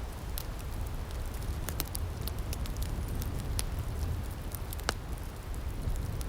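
Outdoor firepit crackling: scattered sharp pops and snaps over a steady low rumble, with one louder pop about five seconds in.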